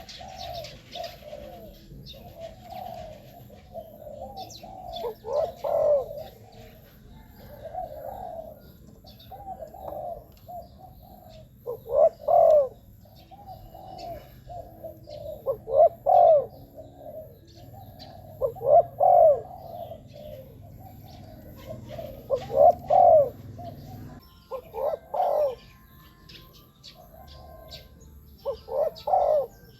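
Spotted dove cooing over and over, in loud phrases every three to four seconds with softer coos between them. This is the call of a decoy dove used to lure wild birds.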